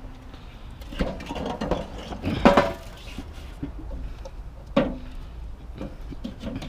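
A heavy chair being lifted and handled: a few knocks and scrapes with some creaking, the loudest about two and a half seconds in.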